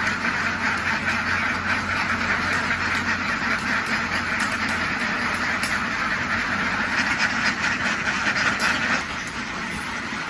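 A large flock of domestic ducks quacking all together in a dense, continuous din, which thins out about nine seconds in.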